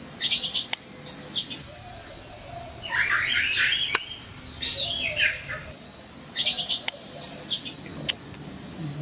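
A bird singing: six short, high chirpy phrases, the opening pair repeated almost identically about six seconds later.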